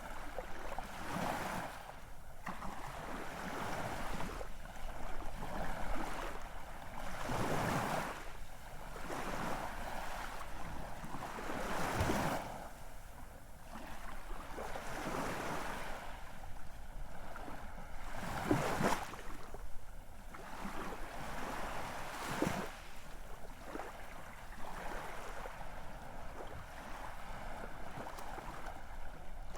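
Ocean waves washing in and breaking, a steady rush of surf that swells into a louder surge every few seconds.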